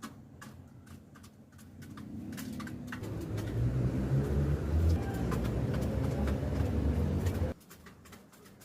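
A low rumbling noise that builds from about two seconds in and cuts off abruptly near the end, with faint short clicks and chirps before it.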